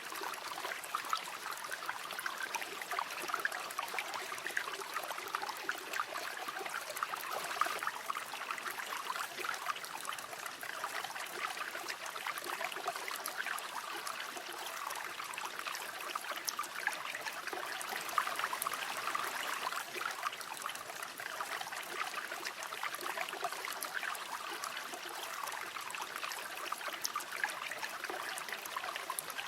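A river flowing steadily, with water splashing and babbling over stones.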